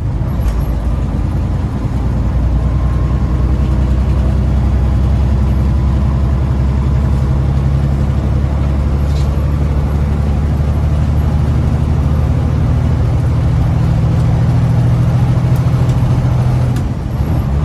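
Diesel engine of a loaded semi truck running steadily under way, heard from inside the cab as a low, even drone. The level dips briefly near the end, then picks up again.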